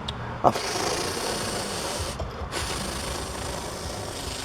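Diecast toy combine harvester rolled along a surface, its wheels and spinning reel making a continuous rasping rattle. The rattle comes in two stretches with a short break about two seconds in.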